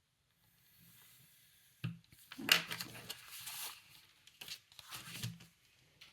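Paper and card being handled in bursts of rustling and crinkling, loudest a little over two seconds in, with a second burst near the end.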